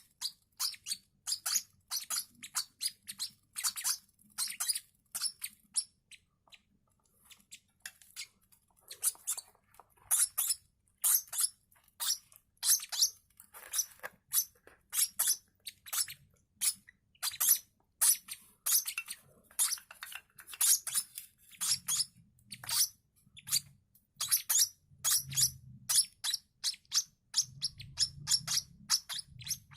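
Hand-fed lovebird chicks, about six days old, squeaking in a fast run of short, high peeps, roughly two or three a second, with a short lull about six seconds in: typical begging calls of young chicks.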